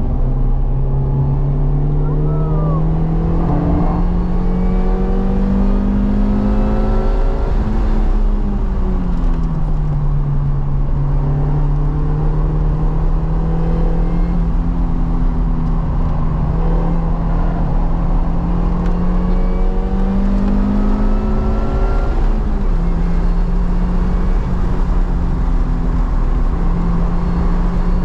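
Car engine heard onboard at speed on a circuit: the engine note climbs slowly, drops sharply about eight seconds in, holds steady, then climbs and drops sharply again a little after twenty seconds. Steady wind and tyre noise run underneath.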